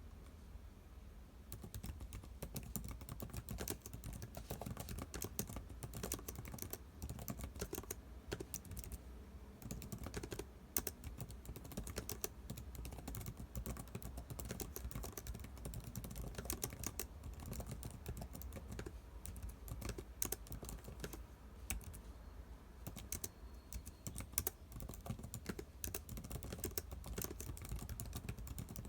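Typing on a computer keyboard: an irregular, continuous stream of key clicks starting about a second and a half in, over a faint steady low hum.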